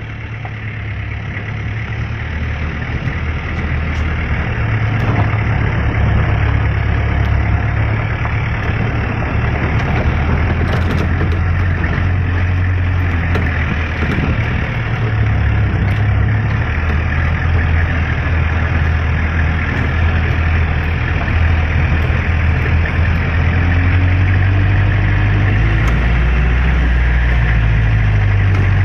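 Engine running steadily at idle with a deep low hum.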